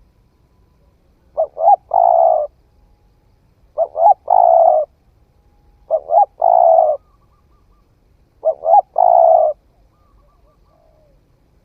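Spotted dove cooing: four calls about two and a half seconds apart, each two short notes followed by one longer coo.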